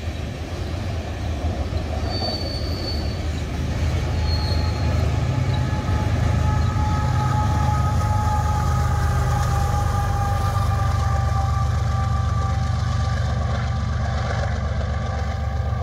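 BNSF freight train passing close: diesel locomotive engines drone under the rumble of loaded covered hopper cars, growing louder about four seconds in. A couple of brief high wheel squeals come early on, and a faint, slowly falling whine runs through the middle.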